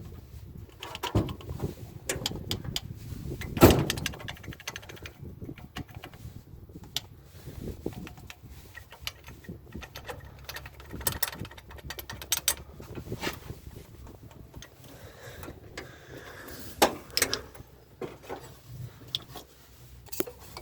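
Scattered clicks, clinks and knocks of hand tools being handled on a truck engine, as a wrench is put to one bolt after another. A louder knock comes a little over three seconds in and another near the end.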